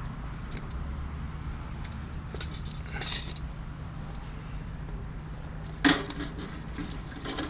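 Tableware being handled during a meal: a short high scrape about three seconds in, then two sharp clinks, over a steady low background hum.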